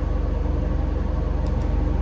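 A machine running with a steady low hum and a fast even pulse.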